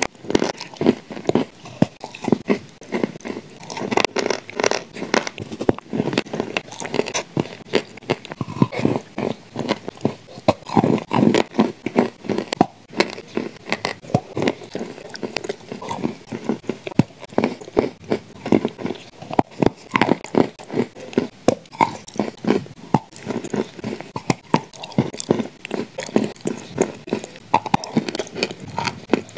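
A person biting and chewing shortbread cookies coated in clay paste: a continuous run of crunches and mouth clicks, several every second.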